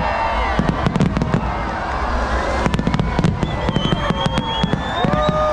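Aerial fireworks going off in a rapid, dense series of sharp bangs and crackles.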